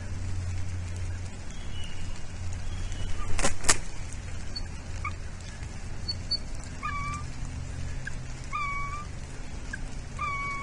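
A bird calling in the second half: three short pitched calls, evenly spaced about a second and a half apart, over a steady hiss and low rumble. Two sharp clicks come a little past three seconds in.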